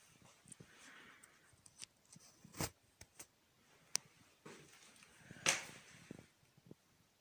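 Faint scattered clicks, knocks and rustles of someone moving about and handling things, with a sharper knock about two and a half seconds in and a louder crackling rustle about five and a half seconds in.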